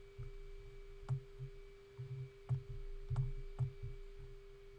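A few sharp clicks, such as a computer mouse being clicked, with soft low thumps over a steady low hum.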